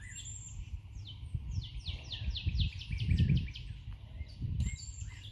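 Songbird singing outdoors: a quick run of about ten descending chirps in the middle, with a few single high notes around it. Under it is a low rumbling noise, loudest about three seconds in.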